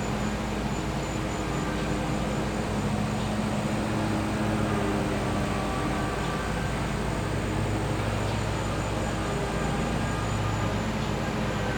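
Gas-powered generator running steadily, giving a constant low hum with a few steady tones stacked above it.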